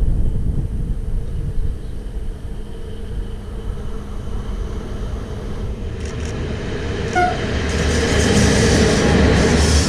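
A train approaching on the rails: a steady low rumble that grows louder, with rising rail and wheel noise from about six seconds in. There is a brief high note about seven seconds in.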